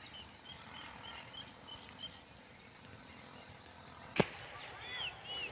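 Outdoor ambience with faint, repeated small bird chirps. A single sharp click comes about four seconds in, followed by a few louder arched bird calls near the end.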